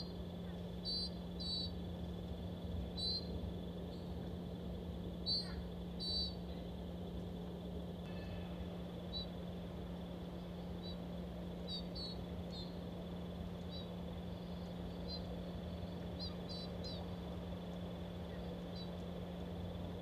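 Small songbirds giving short, sharp chip calls at irregular intervals, several clear ones in the first six seconds and fainter ones later, over a steady low hum.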